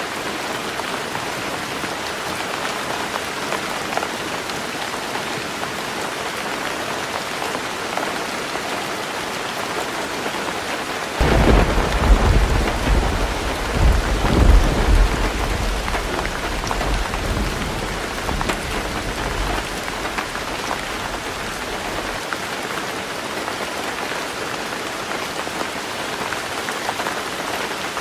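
Heavy rain falling steadily on a roof, with a clap of thunder breaking in suddenly about a third of the way through, rumbling in two swells and dying away over about ten seconds.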